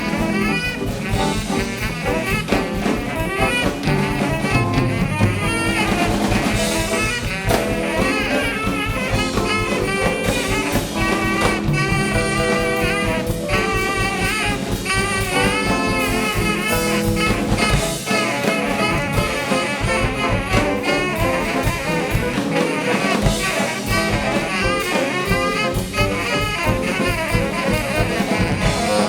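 Live band playing jazz, with saxophone and brass over a drum kit; the deep bass thins out about 18 seconds in.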